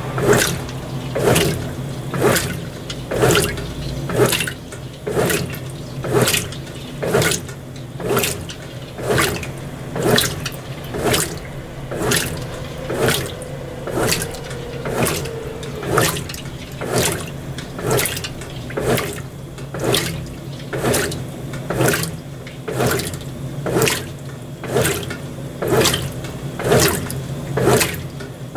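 Brastemp BWT12 top-loading washing machine agitating a load of delicates in water: a regular slosh about once a second as the agitator reverses, over a low motor hum.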